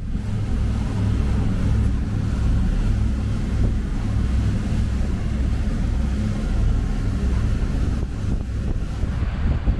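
MerCruiser 7.4 inboard engines of a Sea Ray cruiser running steadily under way: a low, continuous drone, with wind buffeting the microphone.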